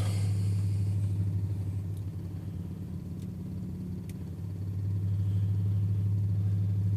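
A 6.9 L IDI V8 diesel running on an ice-cold start at 4 below, with a steady low drone that eases a little midway and then picks back up. The owner judges it a good burn from a sound fuel system.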